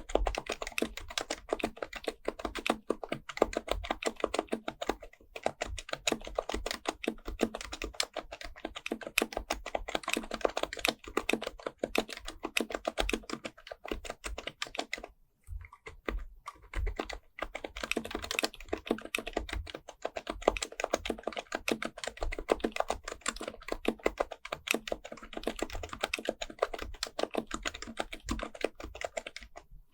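Fast, continuous typing on an HHKB Professional Type-S keyboard with Topre electrostatic capacitive switches: a dense run of keystrokes with a brief pause about halfway through.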